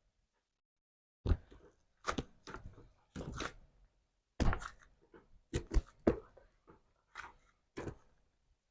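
Slime being squished and poked by hand: about a dozen short, irregular squishes and thunks with silence between them.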